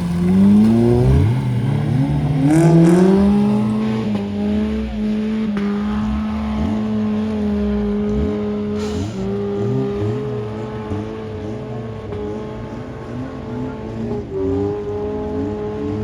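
Off-road vehicle engines running under load: one rises in pitch over the first two seconds and then holds a steady speed, while other engine notes rise and fall beneath it.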